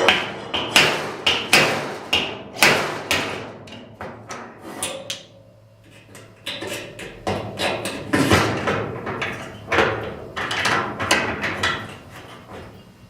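Slide hammer on a stud welded to a dented steel truck hood: the weight is slammed against its stop again and again in irregular strokes, sharp metal clanks with a short ring, to pull the crumple out. There is a short lull about halfway through.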